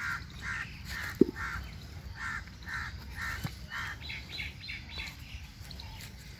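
A bird calling outdoors in a rapid series of short harsh calls, about two a second, with a few higher-pitched calls about four seconds in. A single short sharp knock stands out a little over a second in.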